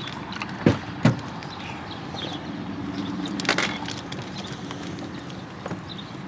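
Steady low hum of a vehicle running, with two sharp thumps about a second in.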